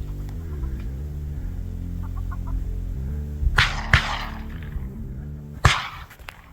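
Three shotgun shots: two in quick succession about halfway through, and a third about two seconds later, each trailing off in a short echo. A steady music bed plays underneath.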